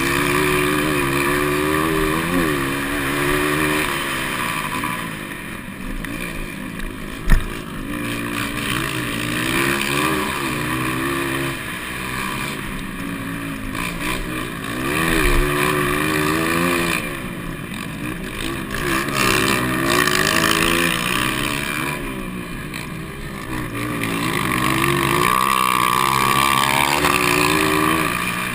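200cc-class motocross bikes racing, engines revving up and falling back again and again as riders work the throttle through the course. A single sharp knock about seven seconds in.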